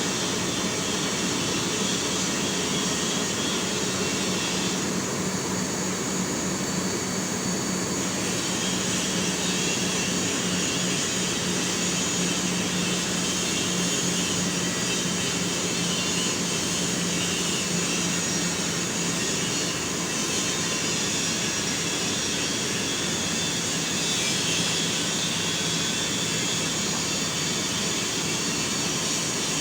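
Liebherr mobile crane's diesel engine droning steadily as it drives on the road, with a constant hum and road noise; the hum drops slightly in pitch about twenty seconds in.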